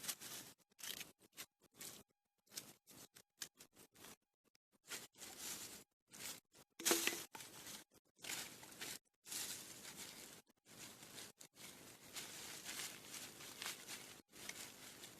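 Birch bark being torn and peeled by hand: a series of dry, irregular rustling and tearing sounds, with one louder snap about halfway through.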